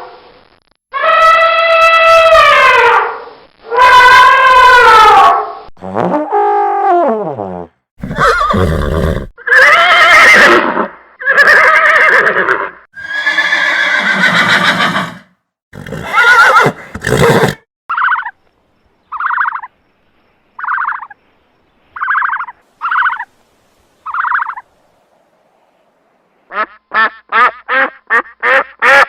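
A series of different animal calls one after another. Long calls falling in pitch come first, then harsher calls, then six short calls about a second and a half apart. A rapid run of short calls starts near the end.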